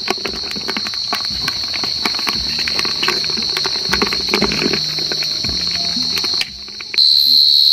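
A cricket's steady high-pitched trill with close crackling and rustling over it. The trill breaks off for about half a second near the end, then comes back louder.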